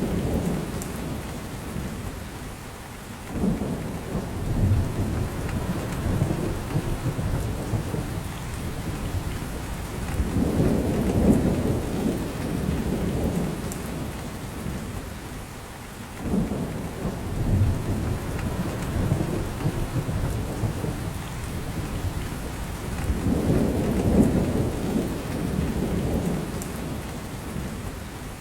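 Steady rain falling on a spruce forest, with drops pattering off the branches. Every six or seven seconds the rain swells into a low rumble, then eases off again.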